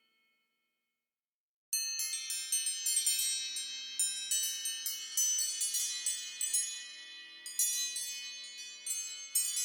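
iPhone ringtone: a bright, chime-like melody of many overlapping ringing bell notes. It starts suddenly about two seconds in, after the last of the previous tone has died away.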